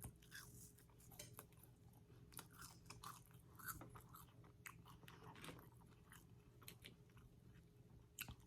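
Faint chewing of McDonald's fast food, with many small crunchy clicks.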